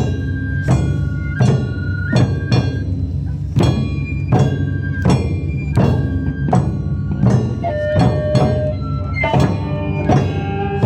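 Live Japanese festival music: taiko drums beating a steady pulse, about three strikes every two seconds, with plucked shamisen-like notes ringing over them and a held higher note near the end.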